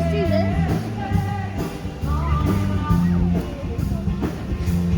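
Rock-and-roll music with singing, guitar and a bass line stepping from note to note.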